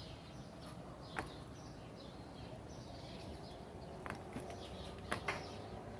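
Quiet outdoor backyard ambience with a few brief, faint bird chirps.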